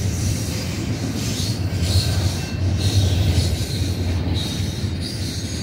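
Double-stack intermodal well cars of a freight train rolling past at speed: a steady low rumble of wheels on rail, with short high wheel squeals twice.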